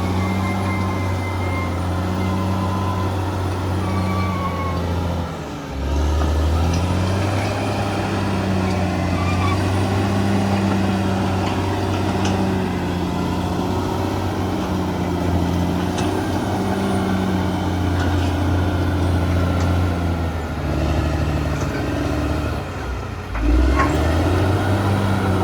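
Bulldozer diesel engine running steadily under load. Twice it dips briefly, then picks back up sharply.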